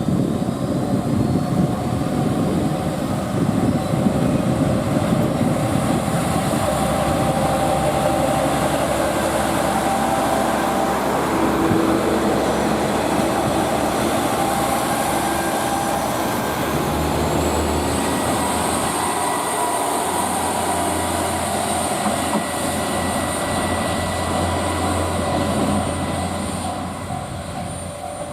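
A train running through the station, with a steady rumble of wheels on the rails and whining tones, one of them rising about halfway through; the sound fades near the end.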